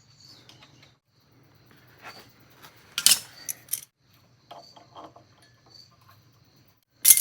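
Light clicks and clatter of small hard objects being handled, with sharp knocks about three seconds in and near the end.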